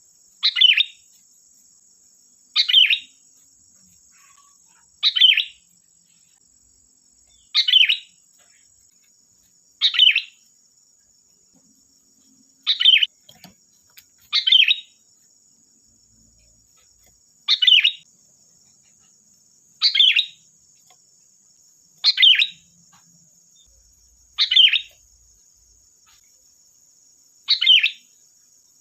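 Sooty-headed bulbul (kutilang) calling: a short, bright call repeated about every two and a half seconds, twelve times, over a faint steady high-pitched buzz.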